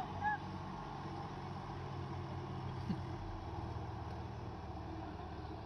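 Diesel engine of farm machinery running steadily, its note shifting a little past halfway.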